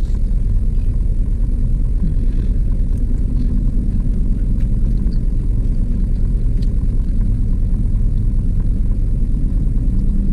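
Car engine idling, a steady low rumble heard from inside the cabin, with a few faint crunches as the fried pie crust is bitten and chewed.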